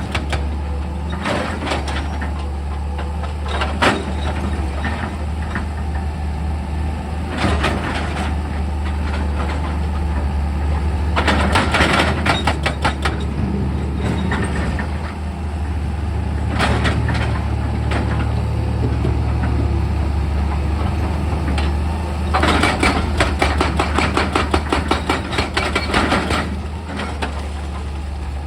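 Excavator's diesel engine running steadily with a deep hum, broken by several bursts of rapid rattling and clanking, the longest in the last few seconds.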